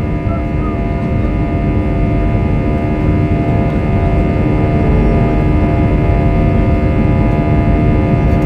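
Airbus A320 jet engines running at high thrust: a dense, steady rumble with several steady whining tones on top, gradually growing louder over the first few seconds.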